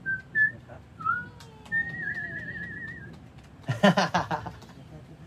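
A person whistling: a few short notes, then a warbling, trilled note held for about a second. A brief loud vocal outburst follows about four seconds in.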